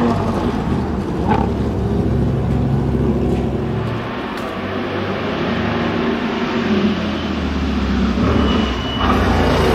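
Ferrari F12 Berlinetta's V12 engine running hard on track: a loud, steady engine note that eases off about four seconds in and swells again near the end.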